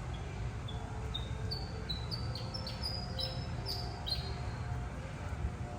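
A bird singing a run of about a dozen short, high notes that climb in pitch and quicken, stopping about four seconds in, over a steady low rumble.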